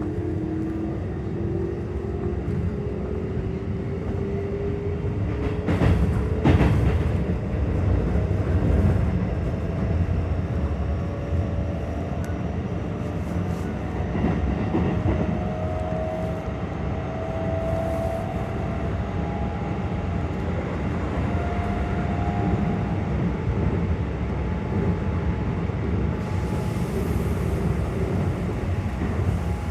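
Keikyu 600 series train's Toyo GTO VVVF inverter and traction motors whining in several tones that rise in pitch as the train accelerates, then running on with steady motor tones over wheel and rail rumble. Two sharp knocks about six seconds in.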